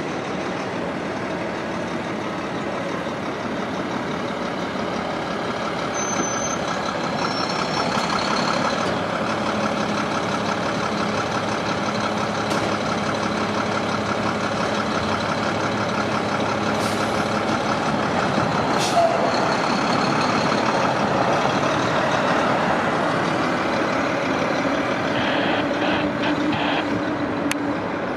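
New York City Subway train running past: a steady rumble of wheels on rail that grows louder and holds for most of the stretch. Brief high-pitched wheel squeals come in around six to eight seconds in.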